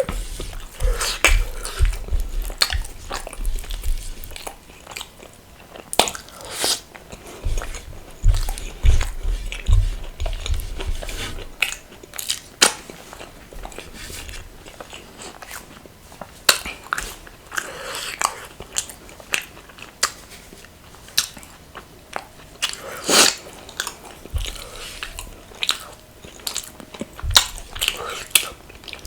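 Close-up eating sounds: chewing and biting with irregular sharp crunches and wet mouth clicks, as in spicy dum aloo eaten with rumali roti, raw onion and green chilli.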